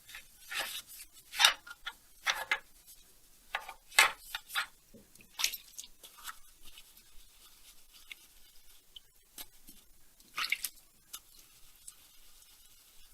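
Short, irregular scrubbing strokes of a brush on grimy chainsaw engine parts, being cleaned.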